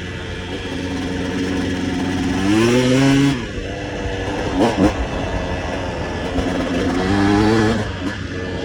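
Dirt bike engine under way, its note climbing in pitch as the throttle opens about two and a half seconds in, then two quick blips and another climb near the end.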